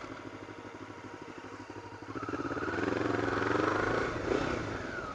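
Honda CB500S parallel-twin motorcycle engine running, swelling from about two seconds in with the pitch rising and falling, then easing back near the end.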